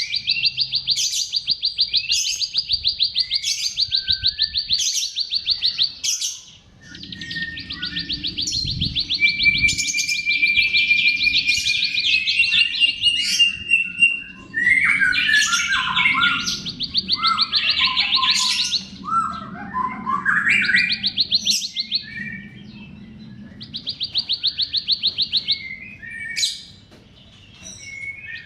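Bar-winged prinia (ciblek) singing: long, very rapid buzzy trills broken by sharp high chips, with a stretch of varied chattering and gliding notes around the middle before the trills return.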